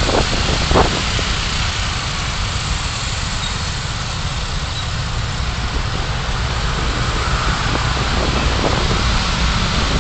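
Steady road and engine noise of a car driving, a low rumble with a hiss of tyres and air, as picked up by a dashcam, with a couple of brief louder sounds in the first second.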